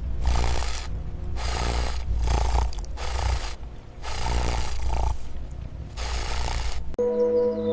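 A large animal's deep, rough roars or growls, repeated about every second and a half to two seconds, ending abruptly near the end.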